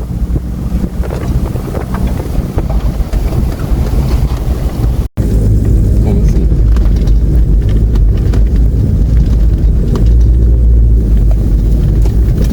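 Vehicle engine running steadily with a low hum, and wind buffeting the microphone. The sound cuts out for an instant about five seconds in.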